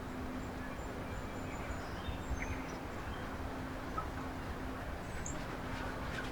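Faint, scattered short bird chirps over steady outdoor background noise, with a steady low hum underneath.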